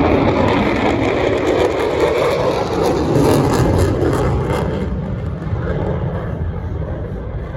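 Lockheed Martin F-35A Lightning II fighter jet flying its display, its single Pratt & Whitney F135 afterburning turbofan giving a loud, steady jet roar that eases off about five seconds in.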